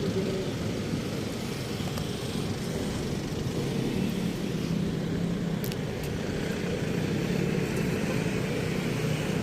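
Steady motor-vehicle noise: a continuous low rumble with a faint engine hum and no distinct events.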